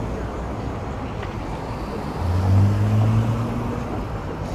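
Street traffic noise, with a passing vehicle's low engine hum rising about two seconds in and easing off a second and a half later.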